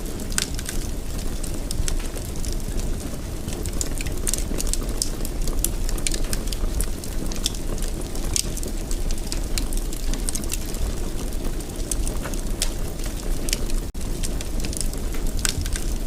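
Fire crackling in a fireplace: a steady low rumble of flames with many small sharp crackles and pops, several a second, at irregular intervals.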